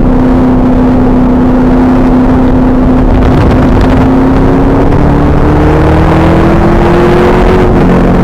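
The 2000 Pontiac Trans Am Firehawk's LS1 V8 pulls at speed on track under heavy wind buffeting on the camera microphone. Its pitch climbs slowly through the second half and dips briefly near the end.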